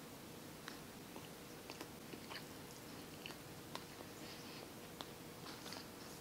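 A person chewing a mouthful of food with lips closed: faint, wet mouth sounds with small scattered clicks.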